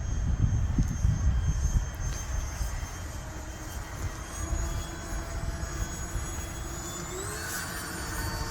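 Electric ducted fan of an E-flite Habu STS RC jet in flight, a steady whine that rises in pitch about seven seconds in as the throttle is advanced. Heavy low wind rumble on the microphone in the first couple of seconds.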